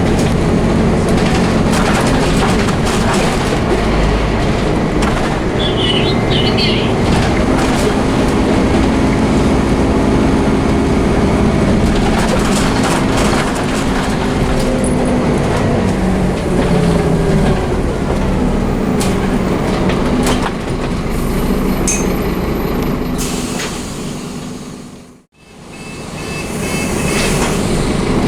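Scania DC9 five-cylinder diesel engine of a Scania OmniCity double-decker bus running under hard acceleration, its pitch rising and falling as the ZF automatic gearbox changes gear, with clicks and rattles throughout. The sound fades out briefly near the end and comes back.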